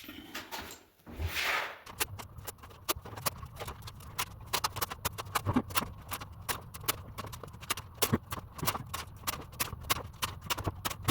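Rapid, irregular clicks and knocks, several a second, starting about two seconds in, after a brief swish.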